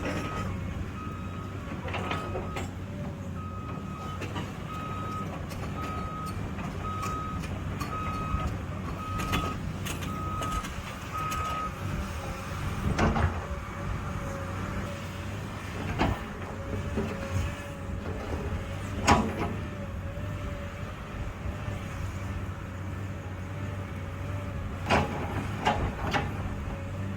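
Excavator's diesel engine running with its travel alarm beeping about once a second, which stops about twelve seconds in. A wavering whine follows, with a few sharp knocks, the loudest a little past the middle.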